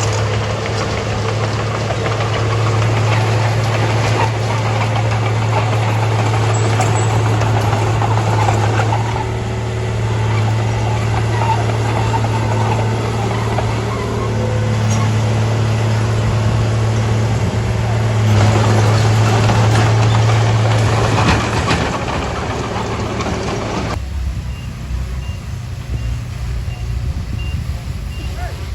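Heavy diesel earthmoving machinery running steadily with a deep engine hum. It gets noisier and harsher from about 18 to 22 seconds in, then settles to a quieter, rougher rumble near the end.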